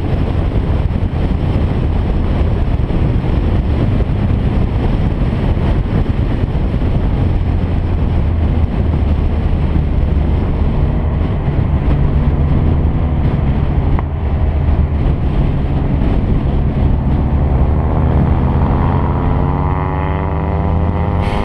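A car engine running steadily under load, with heavy wind and road noise; near the end the engine note climbs steadily in pitch as the car accelerates.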